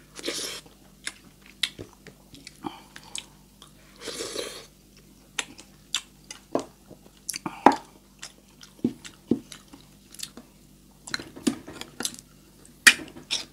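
Close-miked wet chewing and smacking of a handful of rice and sardines in tomato sauce, with many sharp mouth clicks and two longer, rougher smacks about half a second and four seconds in. Near the end a tin sardine can clinks as it is picked up.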